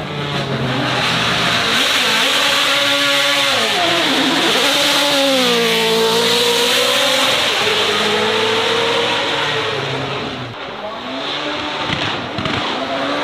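Racing car engine at high revs, its pitch dipping and climbing again as the throttle is lifted and reapplied and gears change. It is loudest through the middle, eases off about ten seconds in, then picks up again.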